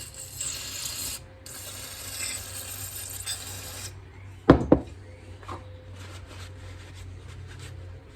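A thin carburetor jet-cleaning wire rasps through a small brass carburetor jet in two stretches of high, hissing scraping, clearing the plugged jet. Two sharp knocks follow about halfway through.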